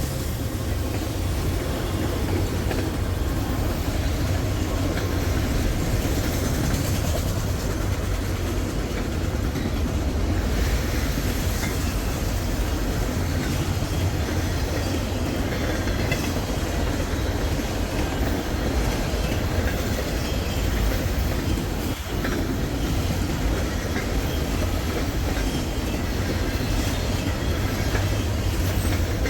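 Freight train cars rolling past, a steady, unbroken sound of steel wheels on the rails.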